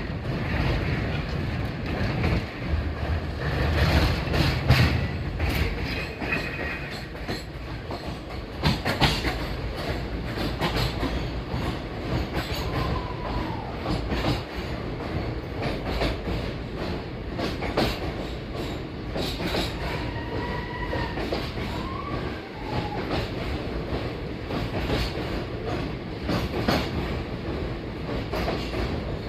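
Train running along the track, its wheels clattering steadily over the rail joints. Around the middle come a few brief high squeals from the wheels.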